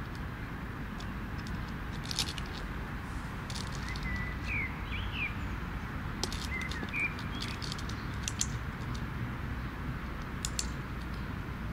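Small birds chirping in short calls, twice in the middle, over a steady low outdoor rumble, with scattered sharp high ticks.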